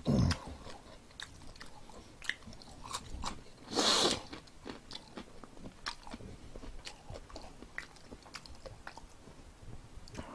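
A man chewing and eating close to the microphone: soft wet mouth clicks and smacks throughout, with one louder rush of noise about four seconds in.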